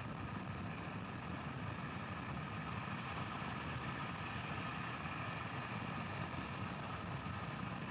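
Steady low rumbling noise with a hiss above it, unchanging throughout.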